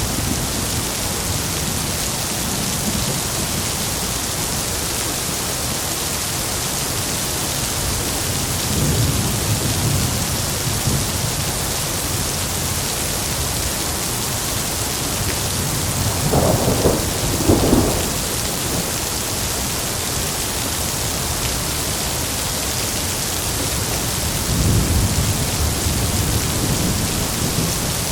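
Heavy rain falling steadily, with thunder: a low rumble about a third of the way in, two louder claps close together a little past halfway, and another low rumble near the end.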